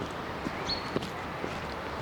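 A hiker's footsteps on a forest trail at a walking pace, about two steps a second, over a steady background hiss. A bird gives one short, high whistled note less than a second in.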